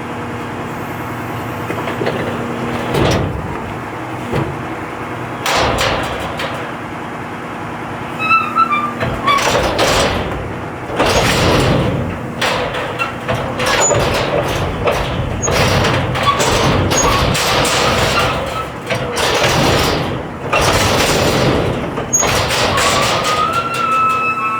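Garbage truck running with a steady low hum, then repeated clattering knocks and thuds from about five seconds in as a load is handled, with a high whine near the end.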